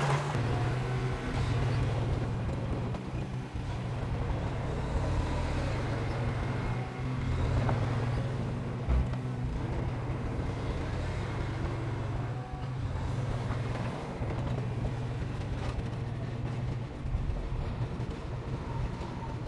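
Heavy diesel engine of earthmoving machinery running steadily with a low hum, with a brief low thump about nine seconds in.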